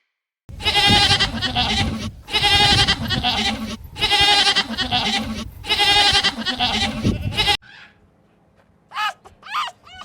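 Goat bleating four times in a row, each a long, loud, quavering call of about a second and a half, cut off abruptly. A few short, high squeaks follow near the end.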